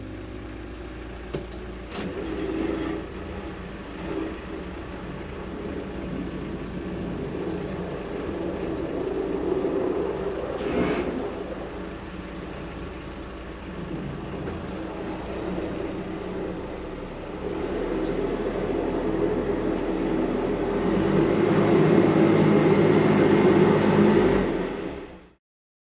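An engine running steadily with a noisy rumble. It grows louder over the last few seconds, then cuts off abruptly.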